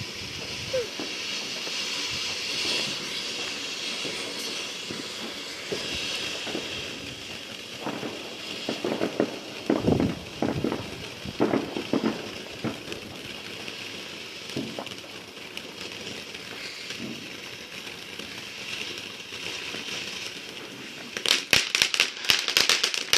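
Fireworks: a steady hiss for most of the stretch, then a burst of rapid sharp crackling near the end.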